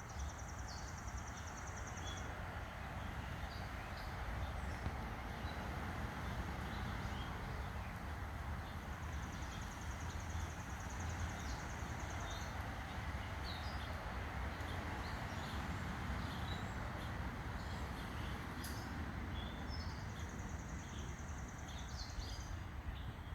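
Backyard birdsong: a rapid high trill lasting two to three seconds, heard three times about nine seconds apart, with scattered short chirps from other birds over a steady low rumble of background noise.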